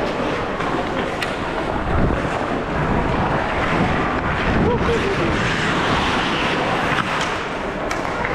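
Game noise from a hockey rink: a steady rush of noise with a few sharp clicks from sticks or the puck, about a second in and twice near the end, and faint distant shouts of players.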